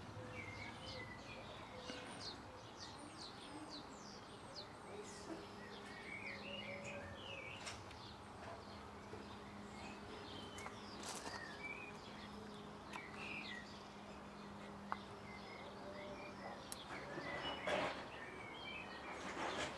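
Small birds chirping and twittering on and off throughout, over a faint steady low hum, with a few soft clicks and a brief rustle near the end.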